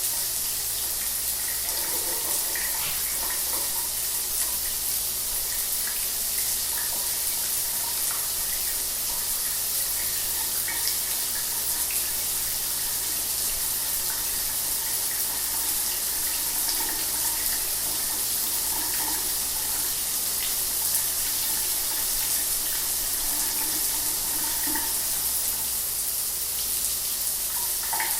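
Shower water running steadily, a continuous hiss of spray falling.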